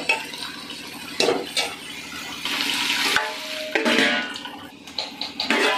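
Ridge gourd and potato mix frying in a pressure cooker with a spatula stirring and scraping, and a few sharp metal knocks as a steel plate is handled to cover the pot.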